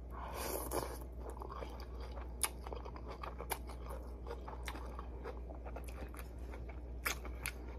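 A person chewing a mouthful of ramen noodles close to the microphone: soft wet mouth clicks scattered throughout, over a low steady hum.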